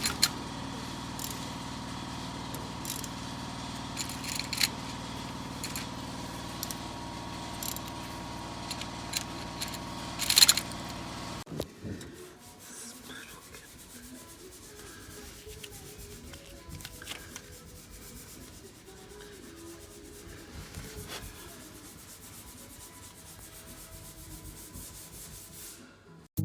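Hand tools clicking and scraping on engine parts over a steady hum, with one sharp metallic click about ten seconds in. After a sudden change near the middle, quieter scraping and rubbing.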